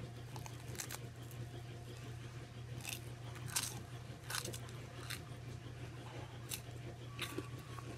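A person biting and chewing a slice of pizza close to the microphone: scattered soft clicks and crunches, about seven over the eight seconds, over a steady low hum.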